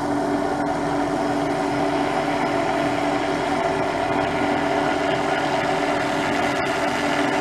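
MD500 helicopter running steadily, its turbine and rotors giving a constant, loud whine and buzz with several steady tones.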